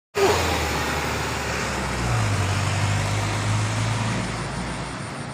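Street traffic at a junction, with a motor vehicle engine idling close by as a low steady hum that rises a little in pitch about two seconds in and eases off near the end.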